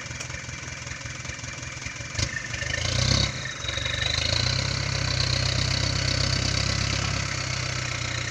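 Dump truck's diesel engine running at idle, with a sharp knock about two seconds in. About three seconds in the engine speeds up and holds at a higher, louder speed with a steady high whine alongside, as when the engine drives the hydraulic hoist to tip the load of fill soil.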